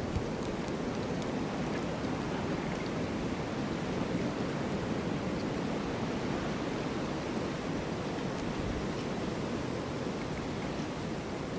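Snowstorm wind blowing in a steady, low rush, with a few faint ticks.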